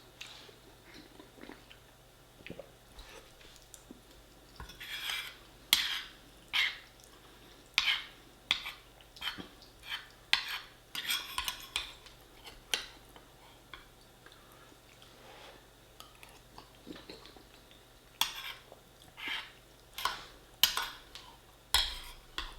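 Metal cutlery clinking and scraping against a plate while eating lasagne, in irregular bursts: a run of sharp clinks and scrapes from about five seconds in, a lull, then another run near the end.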